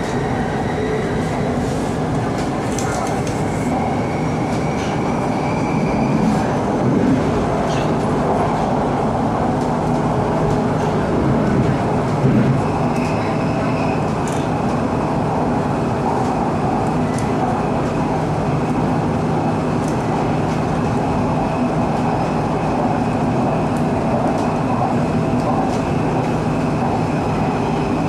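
Japanese-built Bangkok MRT Purple Line electric train running, heard from inside the car: a steady rumble of wheels on rail. Over it is a faint high whine that rises a little in the first few seconds and later holds steady.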